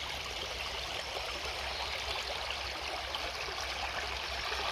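Shallow stream flowing steadily over small rocks, an even trickling rush of water.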